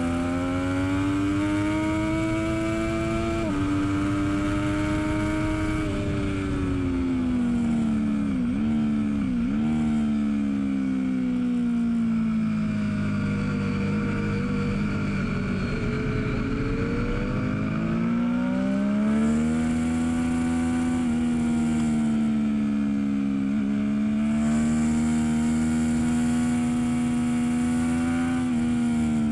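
2012 Triumph Daytona 675R's inline three-cylinder engine heard onboard on track: it pulls up through the revs with a gear change about three and a half seconds in. The revs then fall away for several seconds with two quick dips, climb again and hold high for the rest of the run.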